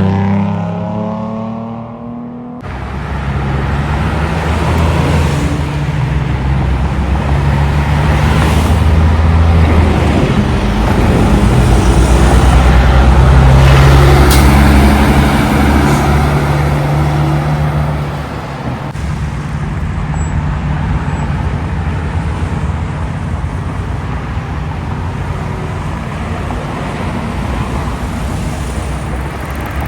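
Road traffic with heavy trucks' engines passing. A vehicle fades away at the start, then after an abrupt change a deep engine rumble builds. It is loudest around the middle and drops to a lower, steady traffic noise about two-thirds of the way through.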